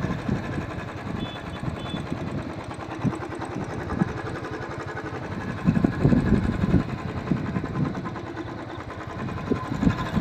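Royal Enfield Bullet's single-cylinder four-stroke engine running under way as the motorcycle is ridden, a steady pulsing thump.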